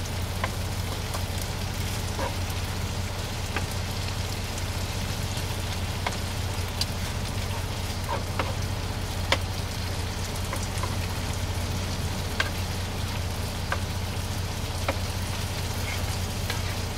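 Ground chorizo frying in a pan: a steady sizzle with scattered crackles and pops, over a constant low hum.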